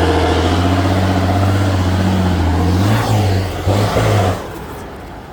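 Off-road trial truck's engine running hard at high, steady revs, dipping briefly about three seconds in, then dropping away sharply about four seconds in.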